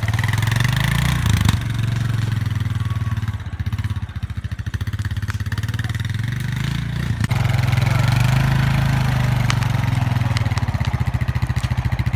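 Quad bike engine running close by, its pitch rising and falling as it is revved up and eased off several times.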